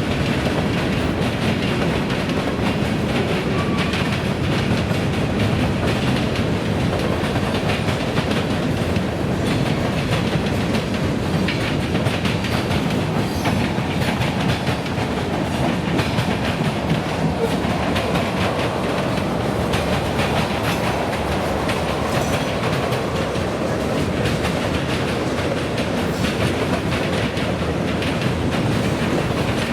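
Freight train cars rolling past, a steady run of wheel noise with the clickety-clack of wheels over the track joints.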